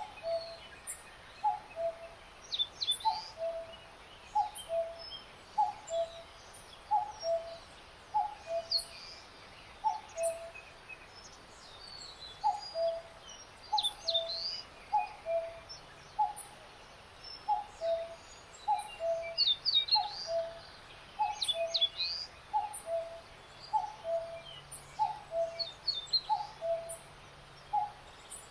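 Birdsong: a low two-note call, the first note higher than the second, repeats evenly a little faster than once a second. Higher chirps and short trills from songbirds come in scattered bursts over it.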